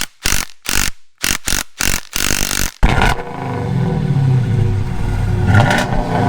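A rapid series of about eight short, loud bursts, then, about three seconds in, a motor or engine starts abruptly and runs steadily with a low, slightly wavering hum.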